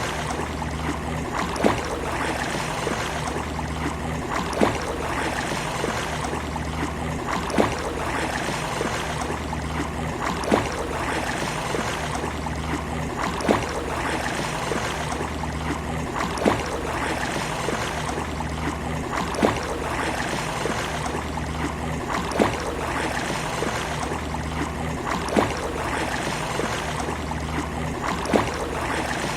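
Steady wash of sea waves on a beach, with a brief sharp peak about every three seconds in an even rhythm.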